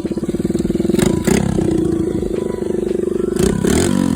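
Small single-cylinder 110cc pit bike engine in a Suzuki DR-Z125L running with a fast even beat. The throttle is blipped about a second in and again near the end, and the revs fall back toward idle afterwards.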